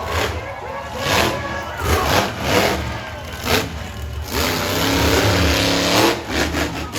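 Monster truck engine revving in repeated loud bursts over a steady low rumble, with one longer sustained rev in the second half.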